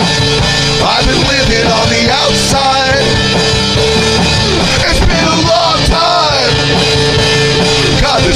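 Loud, steady full-band rock music.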